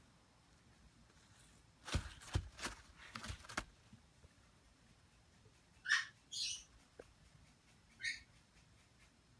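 A quick run of sharp knocks and taps, then three short, high squeaky calls from an African grey parrot chick, two close together and one about a second and a half later.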